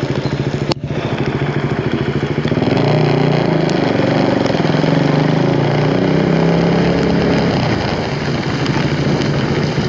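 Racing motorcycle engines running, with several engine notes overlapping and growing louder from about three seconds in to about eight seconds in. A sharp click comes just under a second in.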